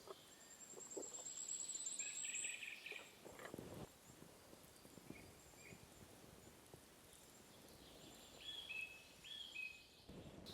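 Faint forest ambience with songbirds: a rapid high trill in the first two seconds or so, then a few short, clipped chirps near the end. There is a brief soft noise about three and a half seconds in.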